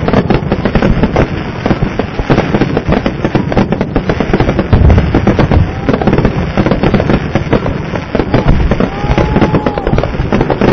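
Fireworks finale barrage: a dense, continuous run of bursts and crackling, with heavy booms about five seconds in and again a few seconds later, and a few short whistles near the end.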